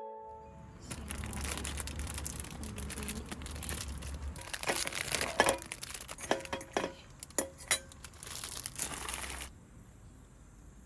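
Packaging being handled and crinkled, with a steady crackle and several sharper cracks in the middle. It stops suddenly near the end.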